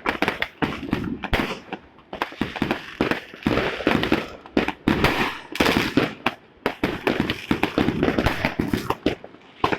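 Fireworks and firecrackers going off in a dense, irregular string of bangs and crackles.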